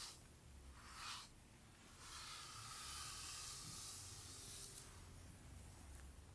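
Soft hissing strokes of a brush drawn through hair. There is a short stroke about a second in, then longer, slower sweeps.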